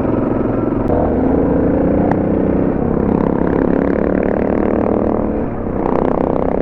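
Suzuki DR650 single-cylinder engine running while riding, its note rising and falling with the throttle, easing off briefly near the end and then picking up again.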